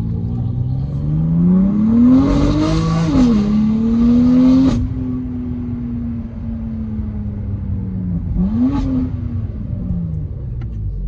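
BMW M3 F80's twin-turbo inline-six with an equal-length exhaust accelerating hard, revs climbing through an upshift about three seconds in. A sharp exhaust crack comes as the throttle closes near five seconds, then the revs ease down steadily. A quick rev blip with another crack comes about eight and a half seconds in, and the revs fall away near the end.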